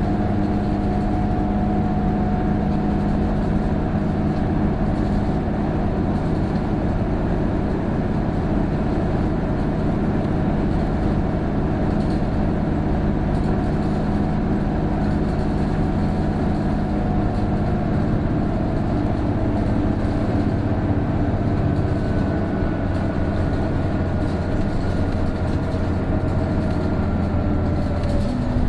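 Isuzu PJ-KV234L1 city bus's turbodiesel engine and driveline pulling steadily on an uphill climb, with a thin whine that holds and then slowly drops in pitch near the end. This whine is the odd noise, like an Aisin automatic gearbox, that this bus makes once the turbo comes in from about 1300 rpm.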